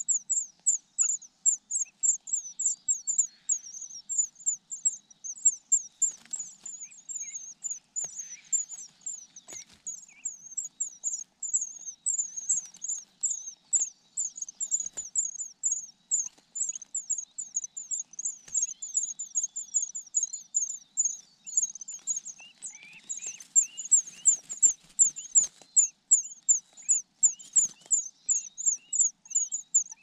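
A bird repeats thin, high, downward-slurred chirps steadily, several a second. Brief bouts of rustling and lower chirps come in about a third of the way in and again near the end.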